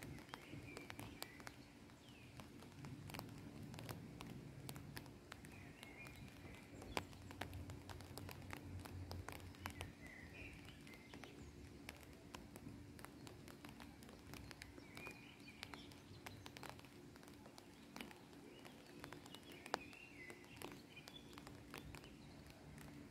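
Quiet outdoor ambience with faint bird chirps every few seconds and scattered light ticks.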